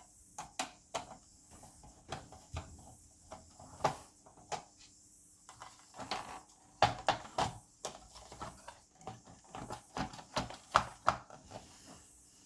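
Irregular plastic clicks, taps and knocks of a projector's casing and inner parts being handled and pried apart during a teardown. The clicks come thicker and louder in the second half.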